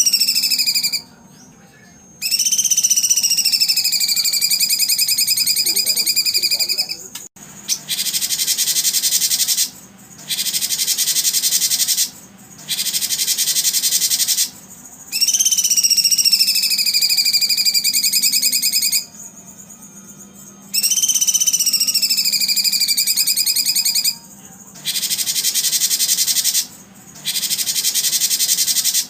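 Songbird song in a regular repeating cycle: long whistled notes, each sliding down and then held for several seconds, alternating with short bursts of a dry, very high buzzing trill, with brief pauses between phrases.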